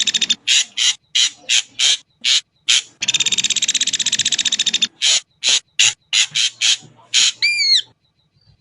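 Ashy drongo singing: a fast rattling trill lasting about two seconds, then a run of short rasping notes, and a few clear whistled notes near the end before it stops.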